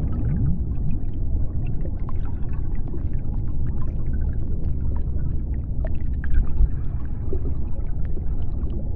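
Underwater ambience of the deep sea: a steady deep rumble with scattered clicks and crackles. A few short upward-sliding calls come in the first half second.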